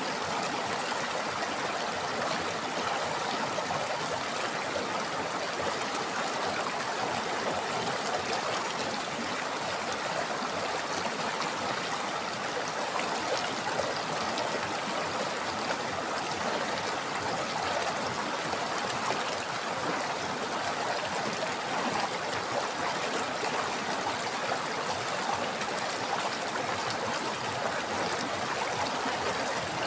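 A river flowing over rocks: a steady rush of running water.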